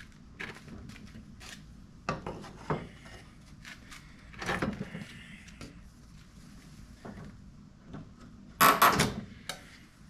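Wooden dresser parts being handled and worked loose: scattered knocks and clicks of wood, a short scraping stretch a little before the middle, and a louder clatter of several knocks near the end.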